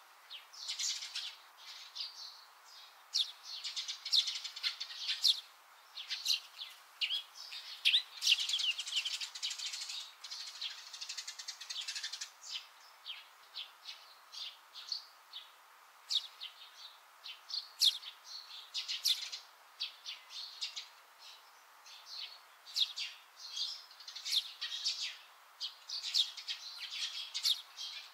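Small birds chirping: many short, high chirps in quick clusters that come and go.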